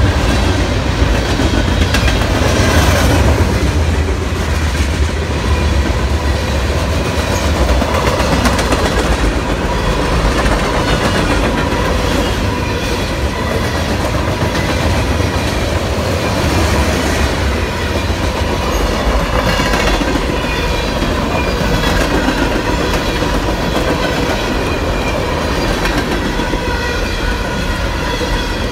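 A long CSX mixed freight train's cars rolling steadily past, the wheels rumbling and rattling on the rails.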